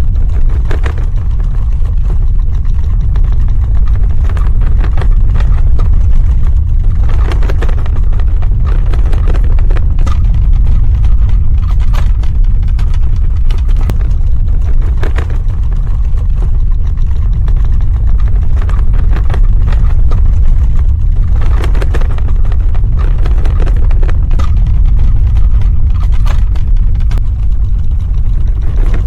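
Earthquake sound effect: a loud, deep, continuous ground rumble, with light rattling and crackling scattered through it.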